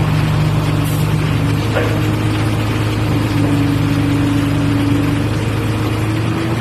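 Boom crane truck's engine running steadily at a constant speed, a continuous drone.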